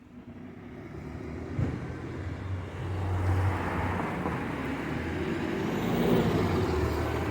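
A single-decker bus pulling away. Its engine runs with a steady low tone that grows louder over the first three seconds and then holds.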